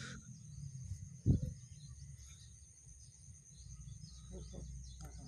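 Outdoor field ambience: a steady high-pitched insect drone and scattered short bird chirps over a low rumble, with a single dull thump about a second in.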